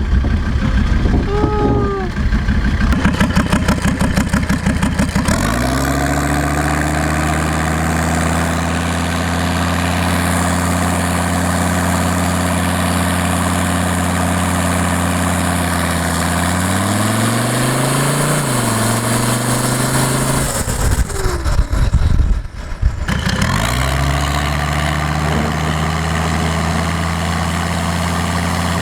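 The five-cylinder turbo diesel of a 1984 Mercedes-Benz 300D running while the car is driven. A rough, pulsing note at first settles into a steady engine note about five seconds in. The pitch drops and wavers about two-thirds of the way in, there is a brief disturbance, and then the steady note returns.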